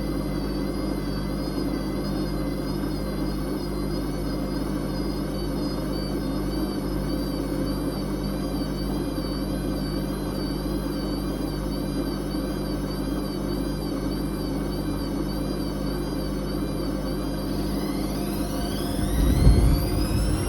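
Whirlpool Indiana 1400 washing machine running with a steady hum and a wavering motor whine. Near the end the motor whine climbs steeply in pitch and the drum rumbles briefly as it speeds up into a spin.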